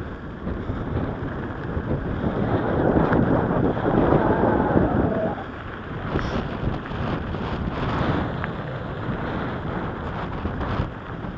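Wind buffeting the microphone of a moving bicycle, a rushing, gusting rumble that swells a few seconds in, with the bike's tyres rolling on dirt jeep track.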